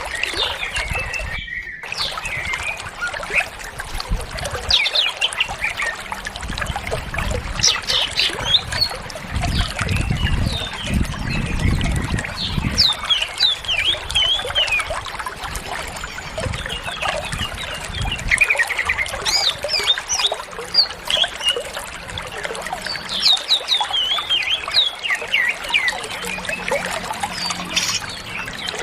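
Cucak ijo (green leafbird) singing in phrases of rapid, varied chirps and whistles, with a steady trickle of water beneath. The sound briefly drops out about two seconds in.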